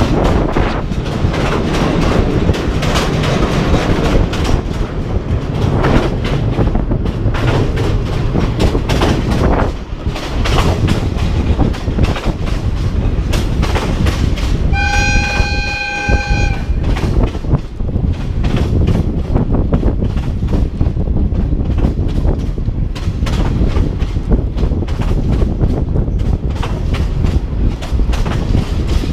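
Passenger train running along the track, heard from on board: a steady rumble and clatter of the wheels. About halfway through, the train sounds a single horn blast lasting about two seconds.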